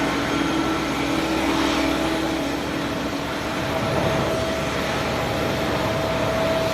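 Steady jet-aircraft noise on an airport apron, with a faint steady whine whose note moves higher about two seconds in.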